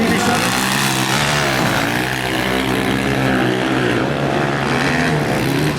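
Several motocross motorcycle engines revving hard at once as the bikes race on the dirt track, their pitch rising and falling with throttle and gear changes.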